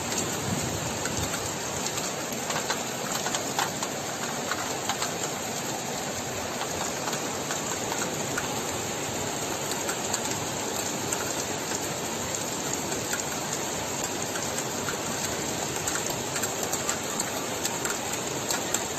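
Steady rain falling hard, an even hiss with scattered patter of drops.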